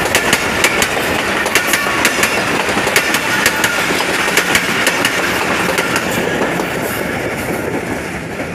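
Passenger coaches of an express train rolling past close by: a steady rumble of steel wheels on the rails with rapid, irregular clicks and clacks, easing off slightly near the end.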